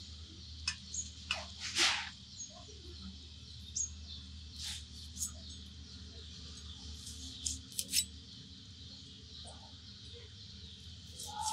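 Scattered bird chirps, with soft, short cutting sounds of raw beef being trimmed on a boti, the curved blade on a stand.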